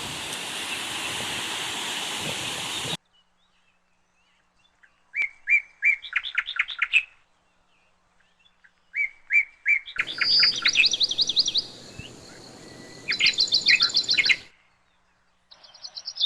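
Waterfall rushing for about three seconds, then cutting off abruptly. A small bird then sings three phrases of quick repeated chirping notes against a quiet background.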